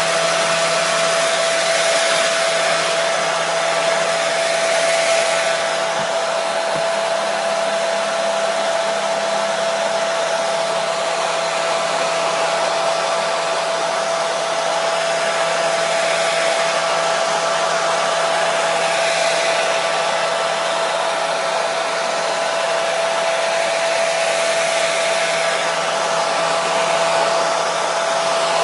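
Hair dryer running steadily: a continuous rush of air with a steady motor whine.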